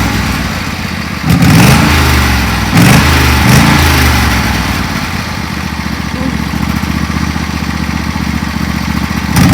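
Tractor engine revving up briefly about three times, then running at a steady speed.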